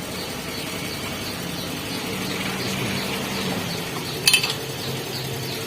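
Metal engine parts and hand tools clinking during engine assembly, with a sharp ringing double clink about four seconds in. Behind it, a faint high chirp repeats about three times a second.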